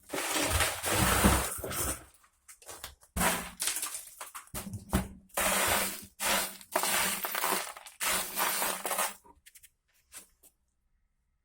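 Shredder-crusher crushing glass, in about five separate spells of noisy grinding with a low hum under them, then falling silent near the end.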